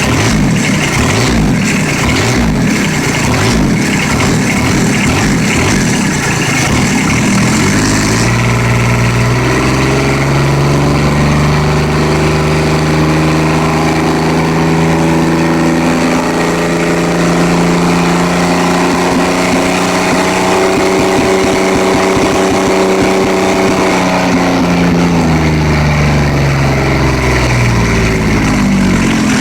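Kubota G5200 pulling tractor's diesel engine idling with a rough clatter, then revved up about a quarter of the way in and held at high revs with a steady drone. It slides back down toward idle near the end.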